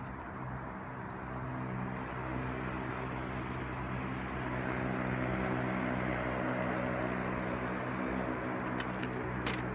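Harley-Davidson Shovelhead V-twin engine idling steadily, with a sharp click near the end.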